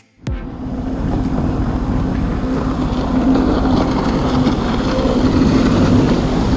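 Jet ski engine running at speed with wind buffeting the microphone, a steady engine tone under rushing noise. It cuts in a fraction of a second in and builds over the first second.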